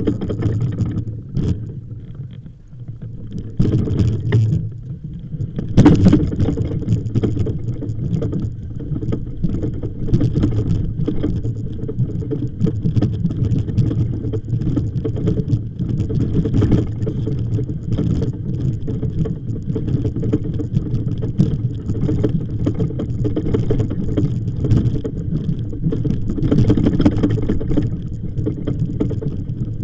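Steady low rumble of wind buffeting the microphone, with scattered crunching steps on the track's stone ballast.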